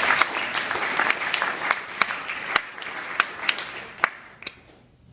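Audience applauding, the clapping dying away until only a few scattered claps are left about four seconds in.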